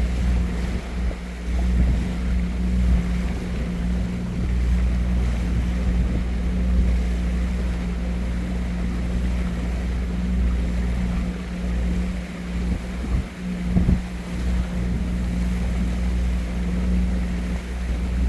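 A steady low engine drone, one constant hum over a deep rumble, with wind gusting on the microphone.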